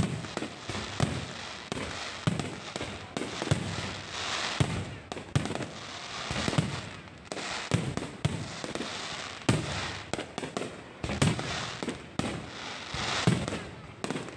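Low-altitude fireworks going off in a steady barrage: sharp bangs about once a second over continuous crackling.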